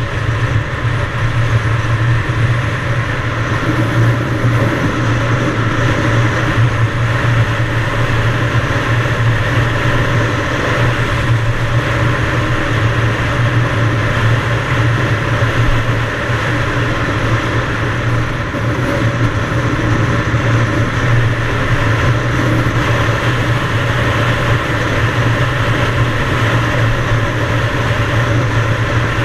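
Yamaha DT175 two-stroke single-cylinder dirt bike engine running at a steady, even pace while riding.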